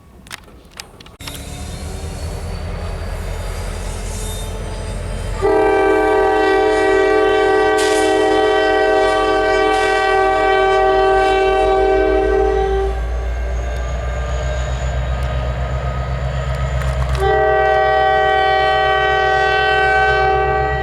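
Norfolk Southern diesel locomotive approaching with a low engine rumble, sounding its multi-chime air horn in two long blasts, the first about five seconds in and the second near the end. A few sharp clicks come in the first second.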